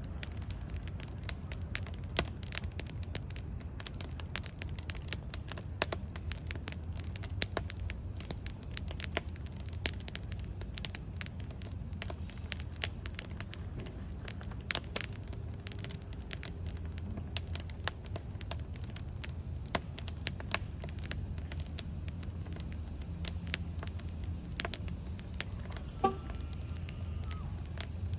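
Wood campfire crackling with frequent irregular sharp pops, over a steady high trill of crickets and a low rumble. There is one brief pitched sound near the end.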